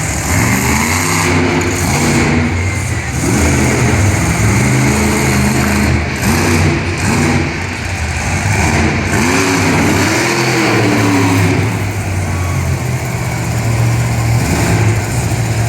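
Monster truck engine revving hard in repeated surges, its pitch climbing and dropping again and again, then holding a steadier low note near the end.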